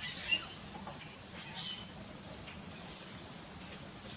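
Insect chorus: a steady high-pitched trilling, with a few short chirps over it, the sharpest about a third of a second in.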